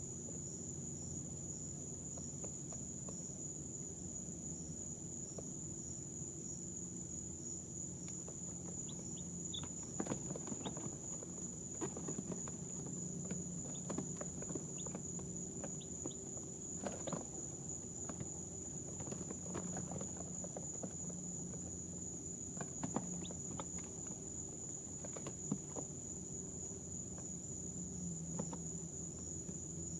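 A steady high-pitched whine over a low hum, with scattered small scratches and taps and a few faint peeps from resting baby chicks.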